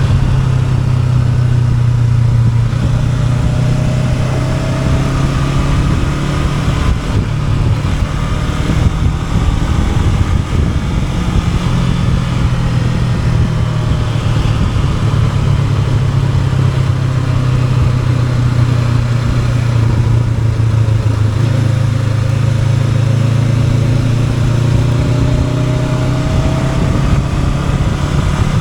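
Honda NX500's parallel-twin engine running under way, its pitch stepping down and back up a few times as the revs change, with steady wind and road noise.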